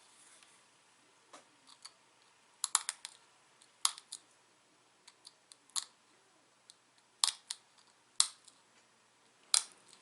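Pressure flaking a small dacite arrowhead: sharp, irregular clicks as tiny flakes snap off the stone's edge, some coming in quick little clusters.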